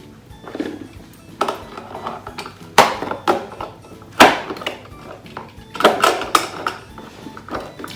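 Hard plastic toy trucks and playset pieces being handled and knocked together: a series of sharp clacks and rattles, about one a second.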